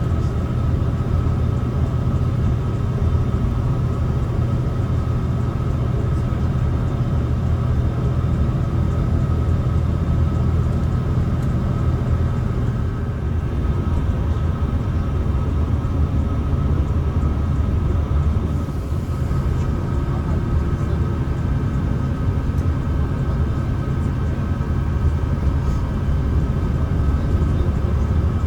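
Mercedes-Benz O307 city bus heard from inside the passenger cabin while under way: the diesel engine drones steadily, with a thin steady whine above it. The engine's pitch drops about halfway through and dips briefly again a few seconds later.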